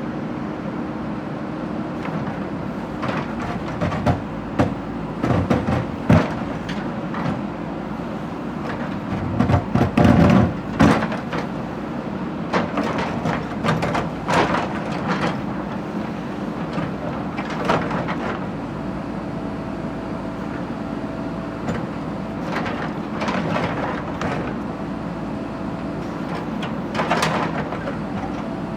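Heavy machine engine running steadily, with irregular clanks and knocks, densest in clusters about a third of the way in and again near the end.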